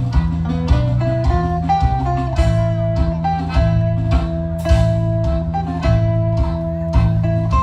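Live instrumental music: guitar playing a melody over a steady rhythm with bass.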